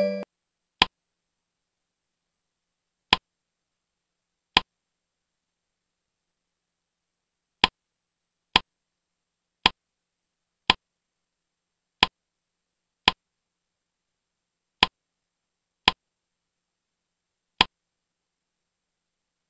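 Short, sharp single clicks, twelve in all at uneven intervals of about one to three seconds, with dead silence between them. They are the clicks that advance a slide presentation's animations, each bringing in a new line or smiley face.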